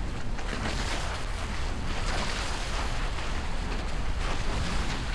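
Wind buffeting the microphone over water rushing and splashing past a Hobie 16 catamaran under sail, a steady rush that swells in a few gusts.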